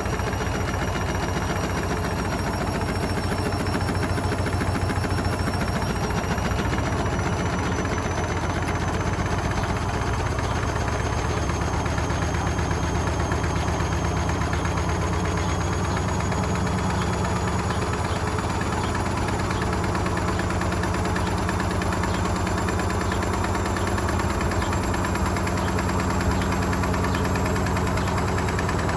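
Hotpoint Smart Tech washing machine running with bricks in its drum: a steady rumble and vibration, with the motor's high whine rising over the first several seconds, then holding steady.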